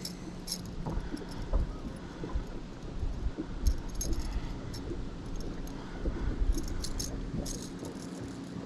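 Light, irregular metallic clinks and jingles of a buzzbait's blades and wire frame being handled while a Palomar knot is tied, over a low steady hum.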